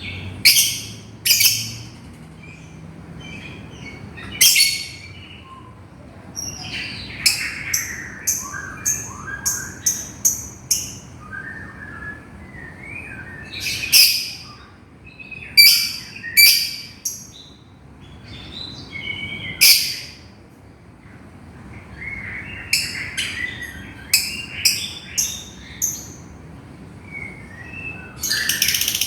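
Lovebird calling: sharp, high-pitched calls, some single and some in quick runs, with softer chattering between them, the calls a lovebird makes to its companion.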